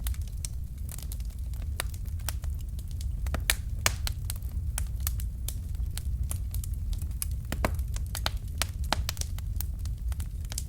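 Fire in a fireplace crackling: irregular sharp pops and snaps, several a second and a few louder ones, over a steady low rumble.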